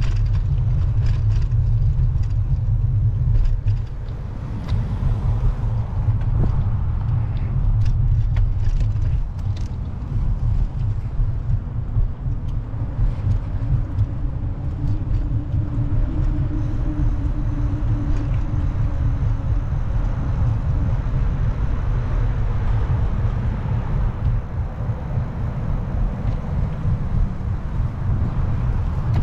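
Low rumble of wind on the microphone of a moving bicycle, mixed with road noise and passing car traffic.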